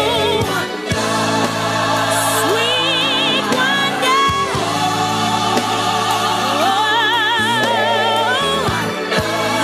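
Gospel music: singing with a wide, wavering vibrato over steady held low notes.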